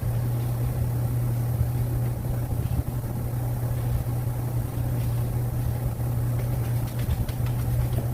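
A steady low machine hum under a rough background noise, with a few faint clicks near the end.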